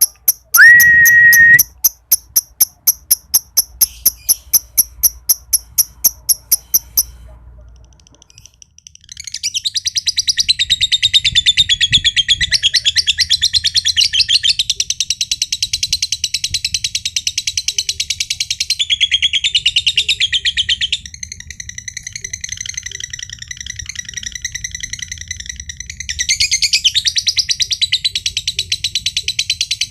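Lovebird's long 'ngekek' song: a loud, continuous, very rapid high-pitched chattering trill that starts about nine seconds in and runs on without a break, softer for a few seconds after the middle before picking up again. Before it, a run of evenly spaced ticks and a short loud whistle-like tone near the start.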